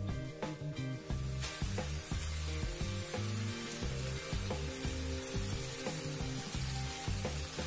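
Bean-sprout fried rice sizzling in a wok over a gas flame. The sizzle comes in about a second and a half in, with background music and its bass line underneath.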